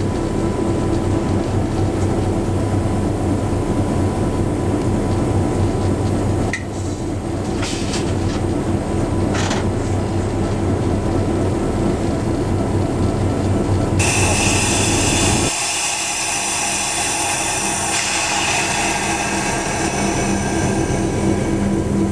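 Diesel locomotive running with a steady engine hum as the train rolls. Past the middle a loud hiss comes in and the low hum drops away for a couple of seconds, then returns.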